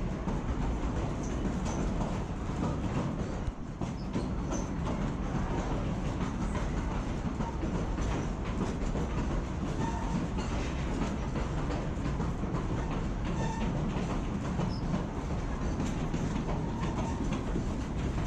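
Narrow-gauge passenger train heard from aboard a coach as it rolls along: a steady rumble with many small clicks from the wheels on the rails, and a brief drop in level about three and a half seconds in.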